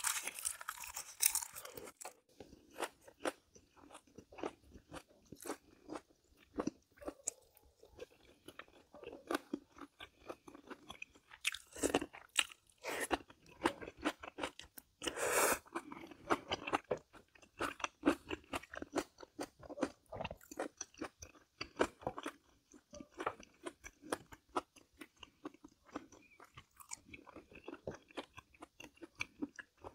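A person chewing and biting into crisp food right at the microphone: a steady run of wet chewing clicks, with louder crunches at the start, about twelve seconds in and about fifteen seconds in.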